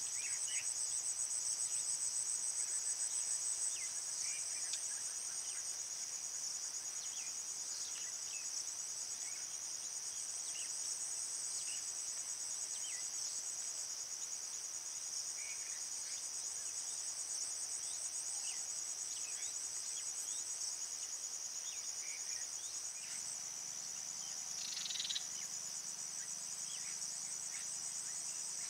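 A chorus of crickets trilling steadily in a high, pulsing band, with faint short chirps scattered through it and one louder call near the end.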